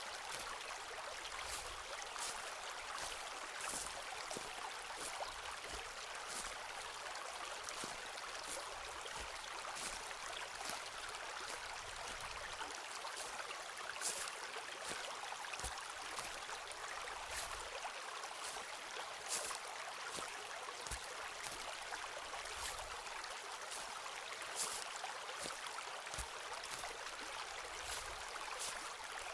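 A forest stream flowing steadily, with irregular footsteps on a woodland path every second or two.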